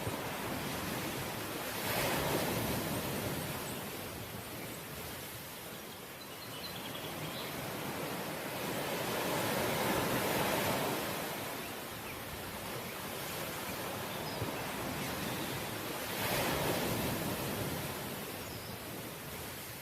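Ocean waves breaking and washing on the shore, with swells of surf about two seconds in, around ten seconds in and again about sixteen seconds in.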